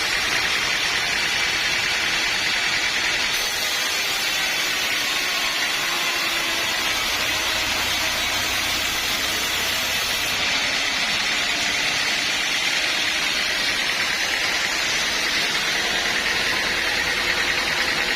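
Sawmill saw running steadily, a loud, even, hissing machine noise.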